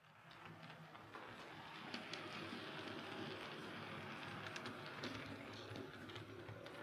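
Hornby OO gauge model locomotive (R3639 streamlined Princess Coronation Class) running along model railway track: a faint, steady motor and wheel whirr with occasional clicks, fitted with newly replaced valve gear.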